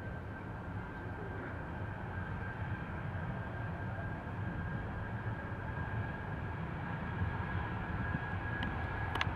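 Jet airliner's engines running with a steady rumble and a thin whine, slowly growing louder. A couple of brief clicks near the end.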